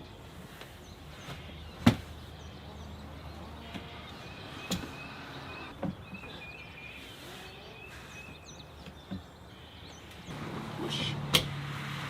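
Several sharp knocks and thumps, the loudest about two seconds in and others spread through, over a thin high chirping. A low steady hum comes in near the end.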